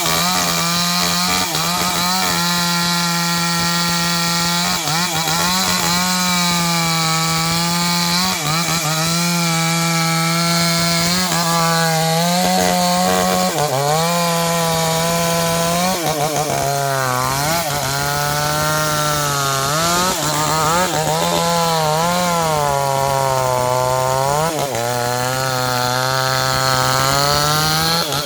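NewWest 628 two-stroke chainsaw running at high revs while cutting into a sengon tree trunk. Its pitch dips and recovers again and again as the sharp chain bites into the wood.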